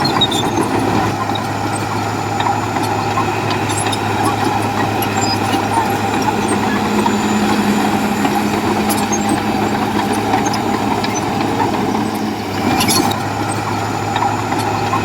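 Heavy diesel engine of earthmoving machinery running steadily, with a short hiss near the end.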